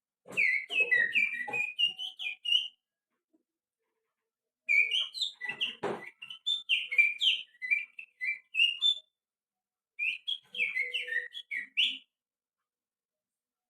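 Finger whistling imitating the song of a white-rumped shama (murai batu): three bursts of quick, varied chirping notes with short silences between them.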